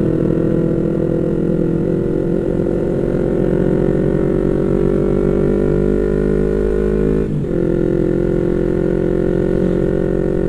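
Yamaha MT-25's 250 cc parallel-twin engine running steadily under way at fairly constant revs, with a brief dip in the sound about seven seconds in.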